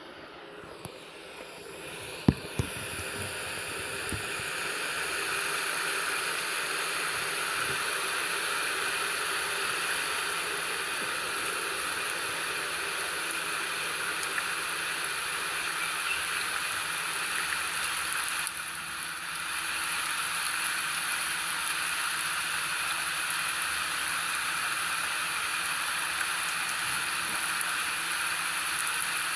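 Steady rain-sound background that swells up over the first few seconds and then runs on evenly, with a couple of sharp taps about two seconds in and a brief dip about two-thirds of the way through.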